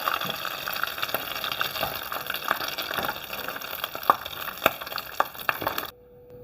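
Breadcrumb-coated snake gourd and fish cutlets deep-frying in hot oil: a steady sizzle with frequent sharp pops and crackles, cutting off suddenly about six seconds in.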